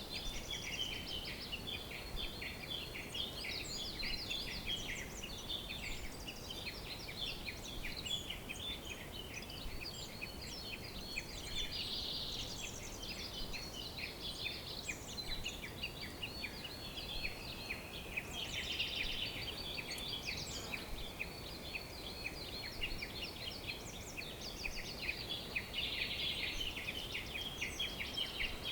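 Dense chorus of many small birds chirping and singing at once, quick high chirps and trills overlapping without a break, over a faint steady background hiss.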